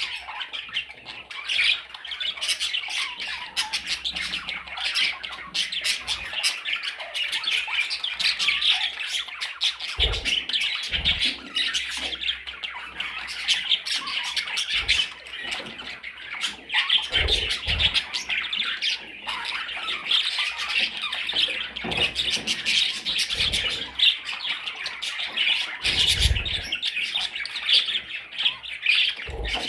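Small parrots chattering and squawking continuously in quick, overlapping calls, with a few low thumps scattered through.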